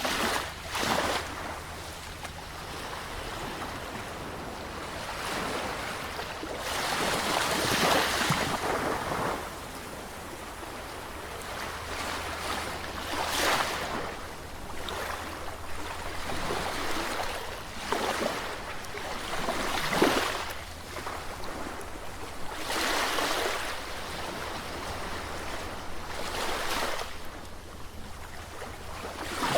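Sea waves washing in and breaking, the noise surging and falling back every few seconds at uneven intervals.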